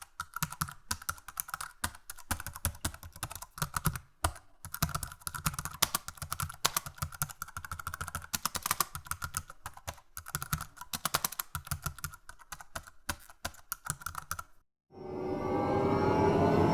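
Fast typing on a computer keyboard, a dense, uneven run of key clicks that stops abruptly. Near the end a new, louder sound begins, rising in pitch as it swells.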